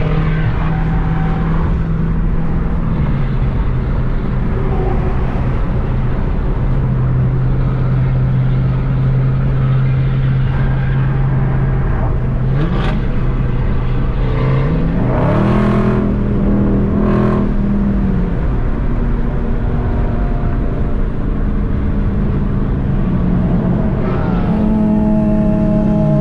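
Muscle car engine running on the move under heavy road and wind noise. About fifteen seconds in it revs up sharply as it accelerates, holds the higher pitch for a few seconds, then drops back to a steady cruise.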